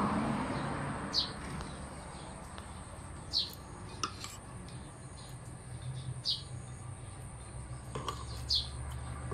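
A bird repeats one short, falling chirp every two to three seconds, over a steady high whine and a low hum. A spoon clicks lightly on a plate once or twice.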